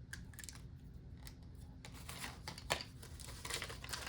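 Paper banknotes and a paper envelope being handled and stuffed, crinkling and rustling, faint at first and busier in the second half, with one sharp click about two and a half seconds in.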